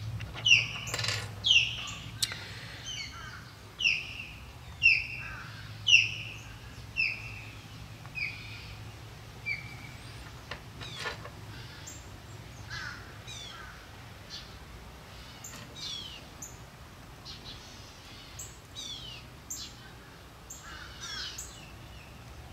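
A bird calling over and over: short, harsh calls that fall in pitch, about one a second, thinning out after about ten seconds. A few light clicks come from small lead weights and wire being handled.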